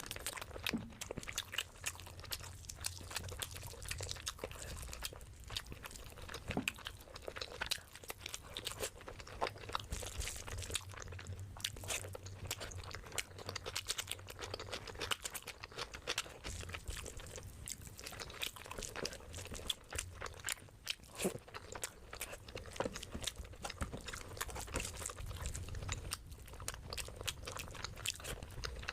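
Close-miked eating of biryani: steady chewing with crunchy bites and many small wet clicks and smacks of the mouth.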